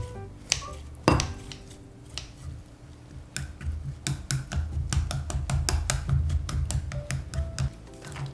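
Kitchen utensils clattering on cookware: two sharp knocks near the start, then a run of quick clicks and taps for most of the rest.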